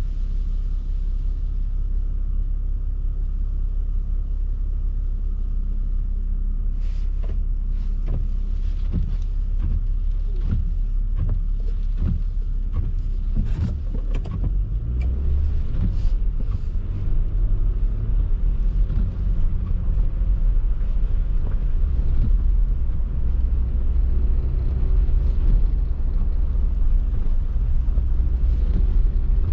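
A car driving on snowy streets: a steady low rumble of engine and road. Scattered clicks and knocks come through it in the middle stretch.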